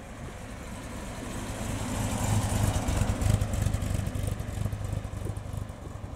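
An MGB GT's engine and exhaust pulsing as it drives past at low speed. It grows louder as it comes near, is loudest about halfway through, then fades as it drives away.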